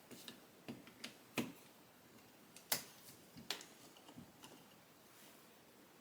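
Faint, irregular sharp clicks and taps from handling a dog-grooming clipper blade and its parts while resetting the blade's setback, about eight in the first four and a half seconds, the loudest near the middle.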